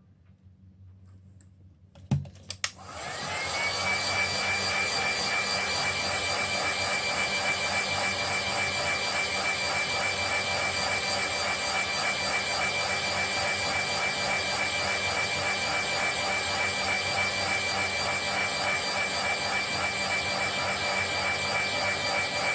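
An electric blower motor, typical of the hot-air tool used to loosen a phone screen's glass, switched on with a click about two seconds in. It spins up over about a second, then runs steadily with an even whine.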